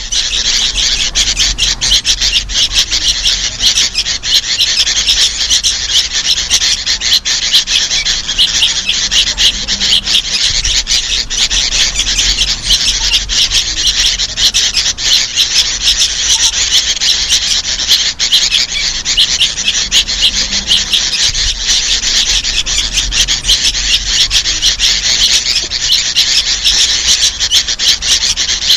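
Sooty-headed bulbuls, adults and fledglings together, calling in a dense, unbroken stream of rapid high calls. This is a recorded lure call used to draw in bulbuls and other small birds.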